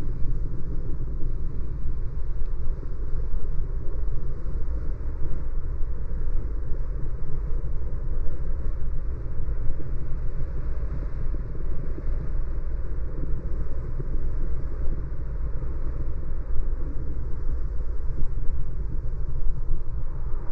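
Steady low rumble of a car driving: road and tyre noise, with no distinct events.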